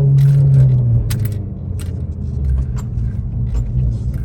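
Straight-piped Ford Focus exhaust, its drone easing down over the first second and settling to a low rumble, with scattered irregular clicks and rattles over it.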